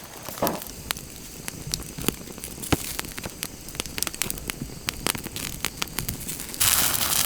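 Wood campfire crackling and popping in sharp irregular clicks, with a sudden loud hiss near the end.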